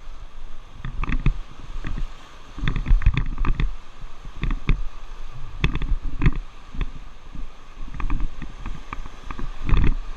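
River water splashing and slapping around an inflatable raft, with irregular low rumbling thuds about every second.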